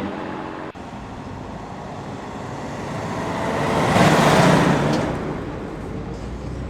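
Cartoon vehicle sound effect: a rushing pass-by that swells to its loudest about four seconds in and then fades, over a steady low engine rumble.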